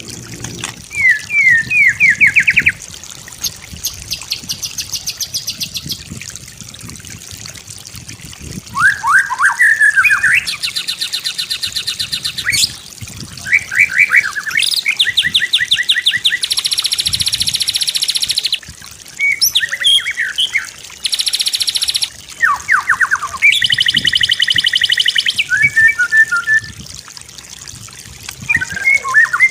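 White-rumped shama (murai batu) singing a varied song: phrase after phrase of quick repeated notes, slurred falling whistles and fast rattling trills, with short pauses between phrases.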